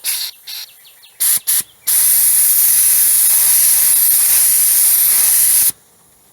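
Paint being sprayed: a few short puffs of spray, then one continuous pass of about four seconds that stops sharply.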